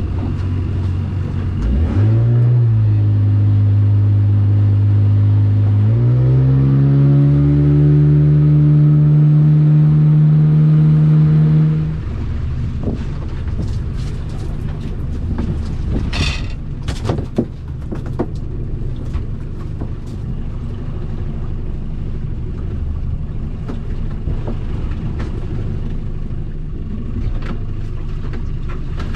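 A small fishing boat's engine opening up in two steps, rising in pitch about two and six seconds in and running steady at speed, then throttled back about twelve seconds in. After that a steadier, noisier rumble continues, with a few brief knocks.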